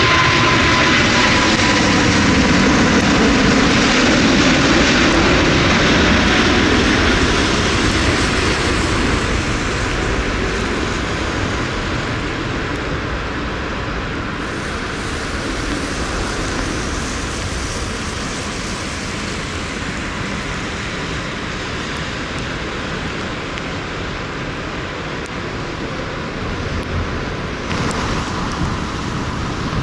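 Jet airliner passing close on approach to land, its engine whine and rumble dropping in pitch as it goes by and fading away over about ten seconds. Steady wind noise is left behind, with a louder gust near the end.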